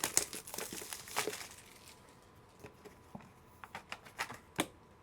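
Plastic packaging crinkling and tearing as a trading card box is opened, dense at first. After that come scattered light clicks of cards and hard plastic cases being handled, with one sharper click near the end.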